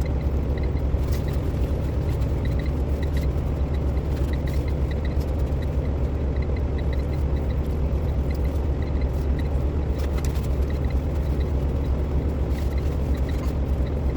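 Steady low rumble of a semi truck's diesel engine running, with faint short high chirps coming and going over it.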